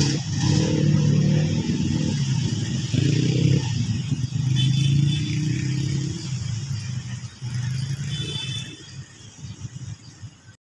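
Diesel train's engine drone and running noise, steady at first and then fading away as the train recedes down the track.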